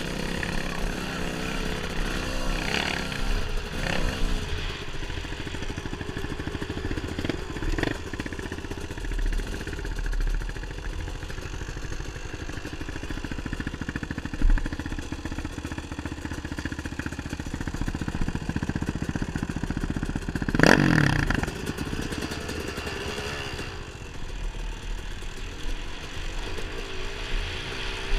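Dirt bike engine running along a trail, its pitch rising and falling with the throttle. A little past two-thirds of the way through comes a brief, much louder surge.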